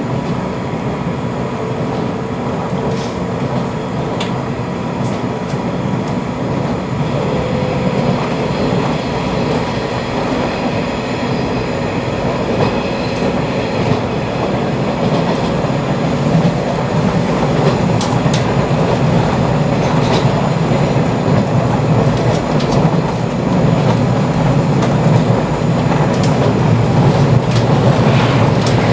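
Running noise of a 485-series electric train heard from inside the passenger car: a steady rumble of wheels on rail with occasional clicks over rail joints, growing a little louder in the second half.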